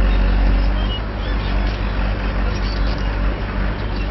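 Heavy quarry machinery running: a steady low diesel engine drone.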